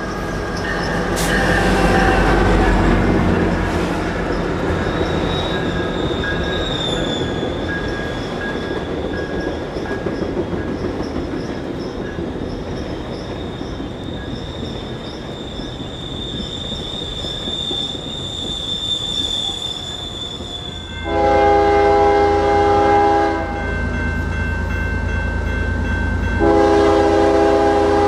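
A GO Transit commuter train passing: the MotivePower MP40PH diesel locomotive, then the bilevel coaches rolling by with wheel noise and a thin, steady high squeal. About 21 seconds in, the sound switches to a Canadian Pacific freight locomotive's air horn giving two long blasts.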